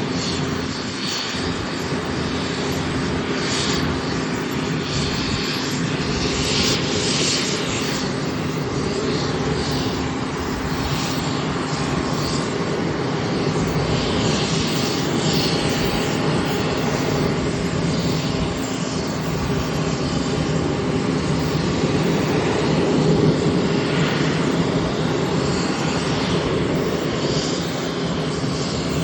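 Engines of a fixed-wing aircraft running loudly and steadily, a continuous engine noise with a low steady hum.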